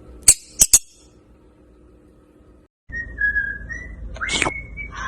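Three sharp clicks, then a parrot whistling: high, wavering notes, then a quick rising whistle that is held near the end.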